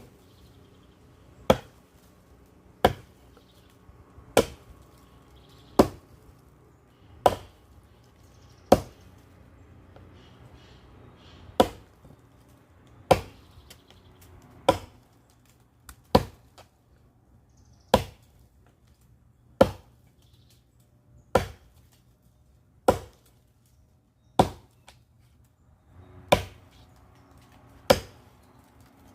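Firewood being chopped: a steady series of sharp blows into wood, about one every second and a half, with a short pause about a third of the way through.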